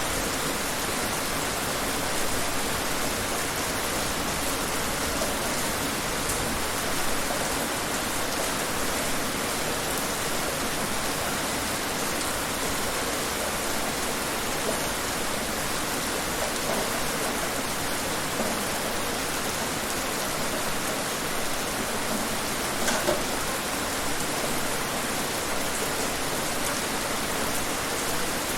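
Steady rain falling on surfaces outside, an even hiss with a few sharper drop ticks now and then.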